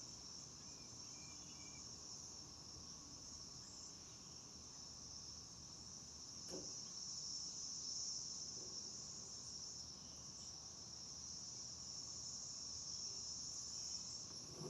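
Insects chirring steadily in a high, even drone, with one faint knock about halfway through.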